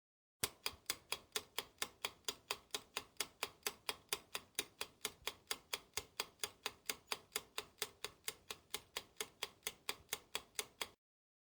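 Clock-ticking sound effect: fast, evenly spaced ticks, about four to five a second, that start and stop abruptly.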